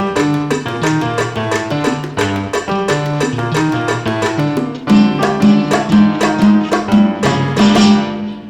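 Live salsa band playing an instrumental passage: quick plucked-string runs over a walking bass line and percussion, coming to its final notes near the end.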